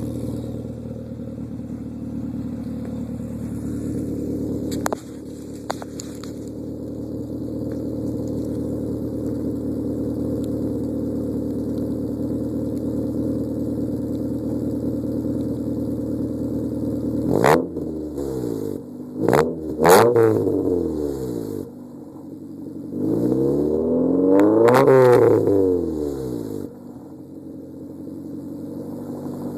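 1996 Honda Civic's D16Y7 1.6-litre non-VTEC four-cylinder idling steadily through a Pacesetter header, Magnaflow high-flow cat and 2¼-inch Megan catback exhaust. About two-thirds of the way in it is blipped three times in quick succession, then revved once for about three seconds, before settling back to idle.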